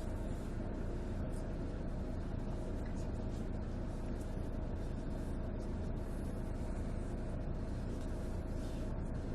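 Volvo D13C 13-litre six-cylinder diesel engine of a Volvo 9700 coach running steadily, a deep, even sound with no revving.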